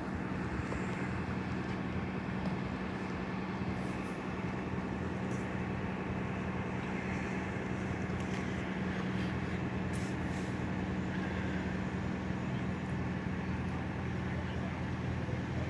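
A large vehicle's engine idling steadily: an even, unbroken low hum.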